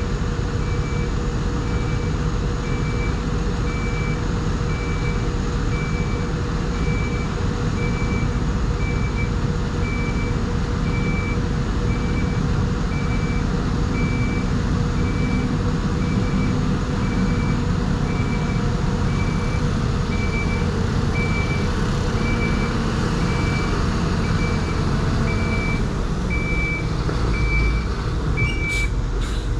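New Holland crawler dozer's diesel engine running steadily while its reversing alarm beeps at an even pace, about one high beep every two-thirds of a second. The alarm stops near the end.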